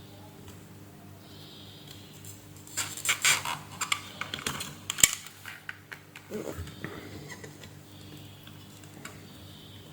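Small hard tools and parts clicking and clattering as they are handled at a repair bench, with one sharp click about halfway through, over a steady low electrical hum.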